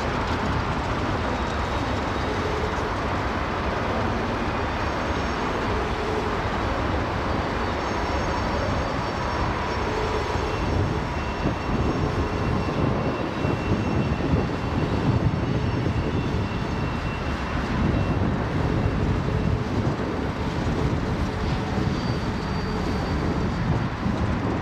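Freight train cars rolling past, a steady rumble of steel wheels on rail that grows rougher about halfway through, with a few faint thin high tones above it.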